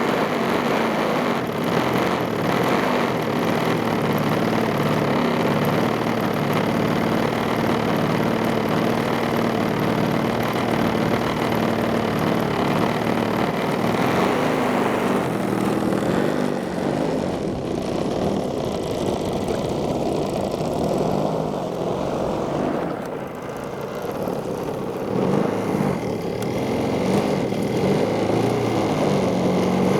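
A radio-controlled model airplane's engine and propeller running steadily. Its sound fades somewhat for several seconds past the middle, then grows louder again near the end.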